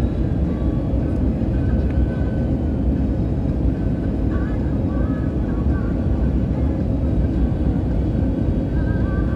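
Steady low rumble of an airliner's jet engines and rushing air, heard from inside the passenger cabin in flight.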